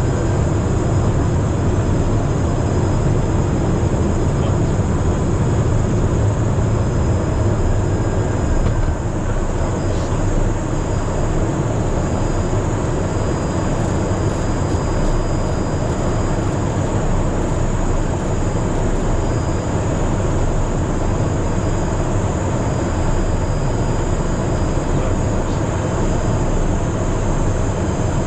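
Steady cabin noise of a Cessna Citation Mustang in flight: the rush of airflow over the fuselage and the drone of its twin Pratt & Whitney PW615F turbofan engines, with a thin steady high whine over it.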